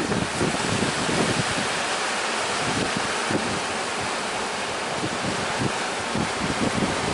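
Sea surf and strong wind blowing over the microphone: a steady rush of water noise with irregular low buffeting from the wind.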